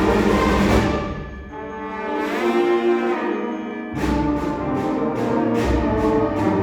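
High school concert band playing with full brass and percussion. About a second in it drops back to a quieter held passage with rising lines, and about four seconds in the full band comes back in loudly with repeated sharp percussion hits.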